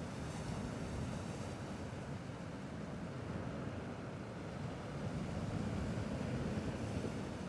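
Sea waves washing steadily on a rocky shore: an even, low wash of water noise with no distinct breaks or splashes.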